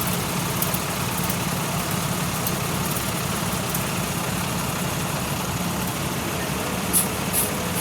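Truck engine idling steadily, with two short sharp clinks near the end.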